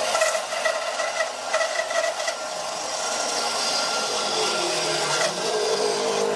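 An electric power tool working wood, its motor whining steadily. About four seconds in its note drops lower, as under load, then holds steady.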